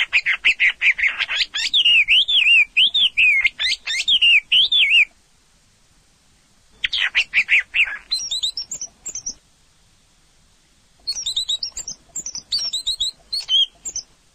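Orange-headed thrush singing in three bouts of fast, varied chirps and whistled phrases, the first about five seconds long and the others shorter, with short pauses between.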